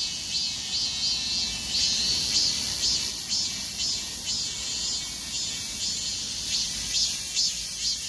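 Insects singing: a high-pitched chirping chorus that pulses in a rhythm of about two beats a second.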